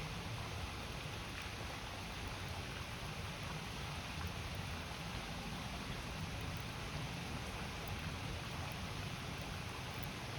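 River water rushing steadily beside a wood campfire, with a few faint crackles from the fire.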